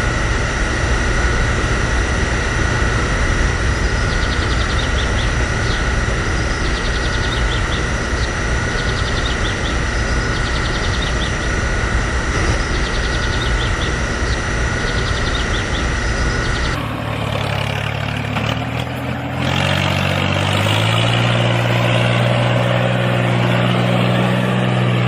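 Cartoon tractor engine running steadily, a low rumble with a high steady whine over it. About two-thirds of the way through it cuts off and gives way to low held tones stepping up in pitch.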